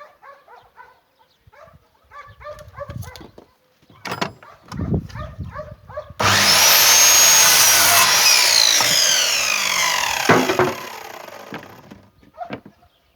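Electric power saw cutting through wood: it starts suddenly, runs loud for about two seconds, then winds down with a falling whine as the blade spins to a stop.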